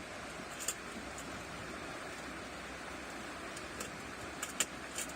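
Steady rush of a river flowing past, with a few light clicks and knocks.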